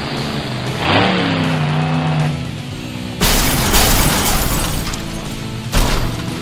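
Monster truck engine revving, its pitch rising about a second in, with background music. About three seconds in, a sudden loud burst of noise takes over for a couple of seconds, with another sharp burst near the end.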